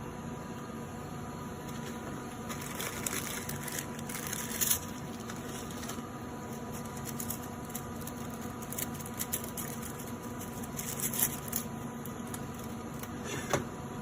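Bouts of crackly rustling and light scraping, a few seconds at a time, over a steady electrical hum from equipment in the room.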